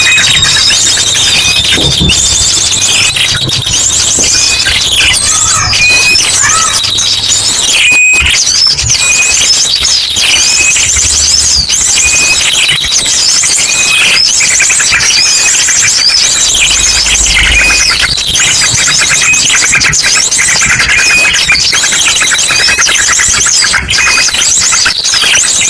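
Bird-lure recording: a loud, dense mass of many small birds' chirps, whistles and chatter, layered with the rapid repeated trills of an ashy drongo. Runs continuously with no break.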